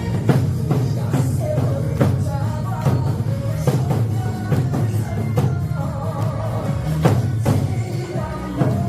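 Nanta drum performance to a recorded trot song with singing. Heavy drum strokes land about once a second.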